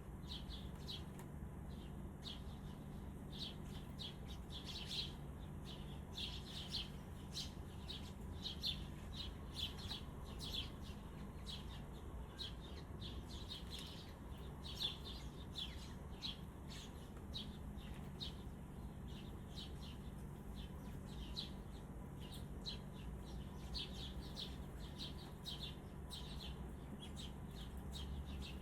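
Small birds chirping continually: short, high chirps several times a second, over a low steady hum.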